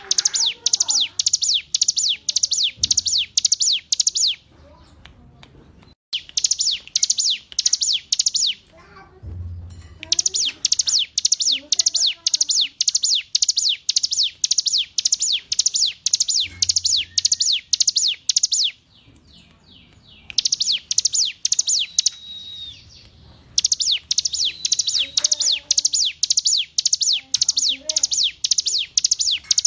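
Ciblek gunung (hill prinia) singing: long runs of sharp, rapidly repeated high notes, about five a second, in bursts of several seconds with short pauses between.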